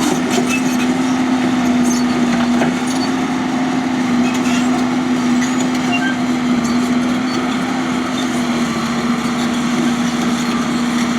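Tracked excavator's diesel engine running at a steady working speed as it moves dirt, with a few faint clicks and knocks over it.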